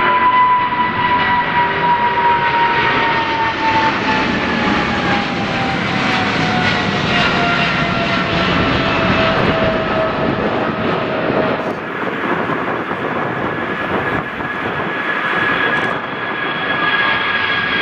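Jet airliner engines running close by: a loud roar with a high whine that slides slowly down in pitch as the aircraft passes. About twelve seconds in the whine breaks off, and another jet's higher, steadier whine takes over.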